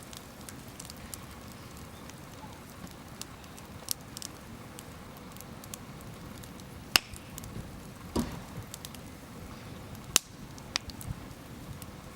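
A wood campfire burning: scattered sharp crackles and pops over a low steady rush, with a few pops standing out well above the rest and one duller thump just past the middle.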